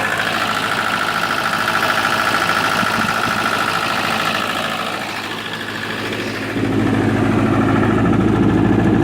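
Four-cylinder Onan diesel engine of a Libby MEP-803A 10 kW military generator running steadily. About two-thirds of the way in the sound turns louder and deeper.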